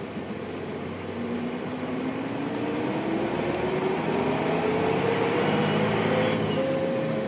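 Nissan Diesel Space Runner RM city bus's FE6-series diesel engine, heard from inside the passenger cabin, pulling the bus up through the revs. The engine and drivetrain note rises steadily and grows louder for several seconds, then holds level near the end.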